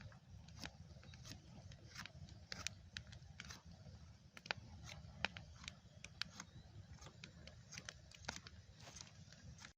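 Faint irregular clicks and ticks, a few a second, over a low rumble.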